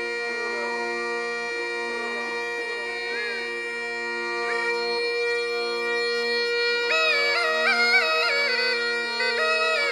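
Rajasthani folk instrumental music: a steady, reedy drone holding several notes, with a high ornamented melody line stepping between notes from about seven seconds in.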